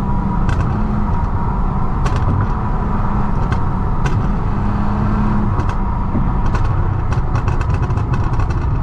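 Lexus IS250's V6 running while driving, with scattered short exhaust pops and crackles from its pops-and-bangs ECU tune, coming more often near the end.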